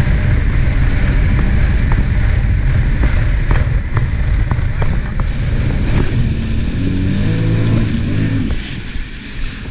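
Jet ski engine running with a loud, steady, low rumble. About seven seconds in, its pitch bends up and down before the level drops near the end.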